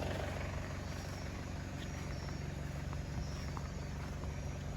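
A vehicle engine idling steadily, with a few faint ticks and a faint chirping of night insects.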